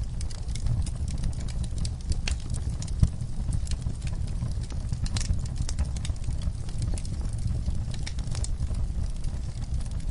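Wood fire burning in an outdoor firepit: dense sharp crackles and pops over a steady low rumble, with one louder pop about three seconds in.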